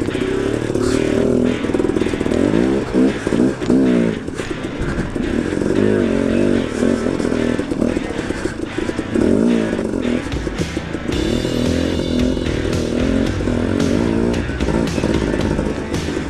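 KTM 250 XC-W two-stroke dirt bike engine revving up and down over and over as the throttle is worked on rough trail, its pitch rising and falling with each burst.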